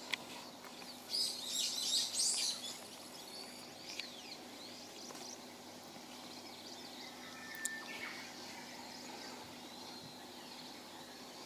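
Wild birds calling and singing. About a second in comes a burst of rapid, high chirping, the loudest part, followed by scattered thin whistled calls over a faint steady background hiss.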